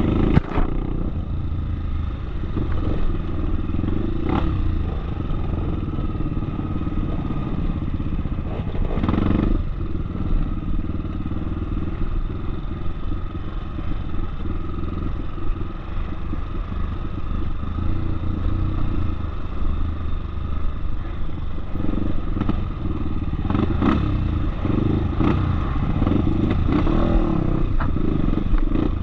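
Off-road motorcycle engine running steadily while riding, with sharp knocks and rattles now and then.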